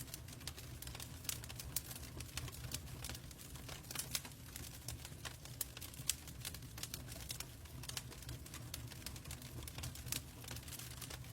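Logs burning in a fireplace, crackling with irregular sharp snaps and pops over a steady low rumble.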